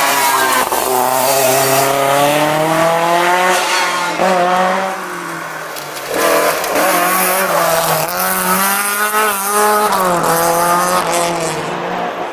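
Rally car engine revving hard under acceleration, its pitch climbing and dropping with gear changes. It eases off about five seconds in, then pulls hard again and falls away near the end.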